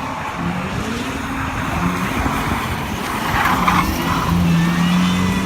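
Supercharged V8 engine of a drifting BMW E36, its note rising and falling, then held steadier near the end, with tyres squealing briefly about three and a half seconds in.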